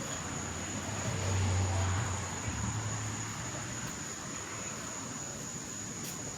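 A low engine hum from a passing vehicle swells over about a second, then fades away by about four seconds in. A steady thin high tone and background noise run under it.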